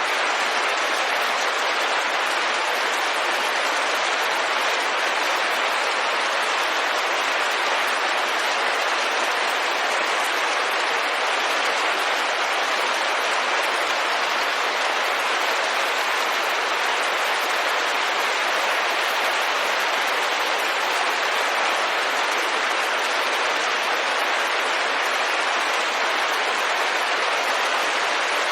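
Steady rain falling on a window: an even, unbroken hiss with no separate drops or gusts standing out.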